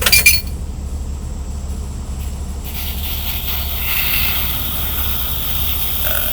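Heavy diesel tow truck engine idling steadily with a low rumble, after a short loud burst right at the start.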